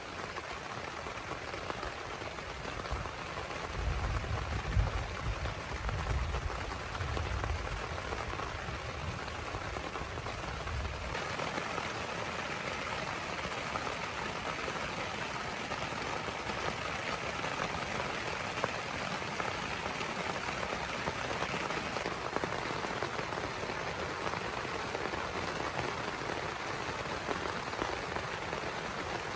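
Heavy rain falling steadily. A low rumble sounds for several seconds early on, and from about eleven seconds in the rain sounds fuller and hissier.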